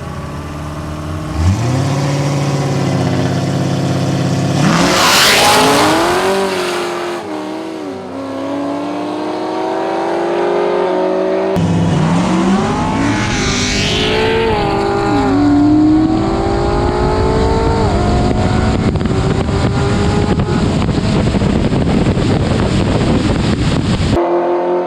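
Car engine accelerating hard through the gears, its pitch climbing and dropping back at each shift. There is a loud, rough burst about five seconds in. The sound breaks off abruptly about halfway through, and a second hard acceleration follows.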